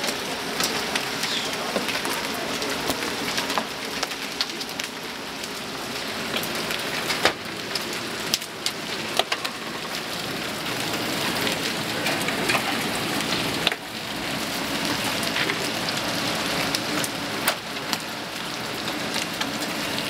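Large hailstones, some as big as a cue ball, pelting down in a storm: a dense, steady clatter of impacts with many sharper, louder single hits scattered throughout.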